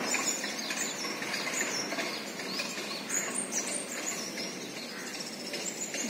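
Many small birds chirping and calling at once, a busy scatter of short, high chirps and quick up-and-down whistles.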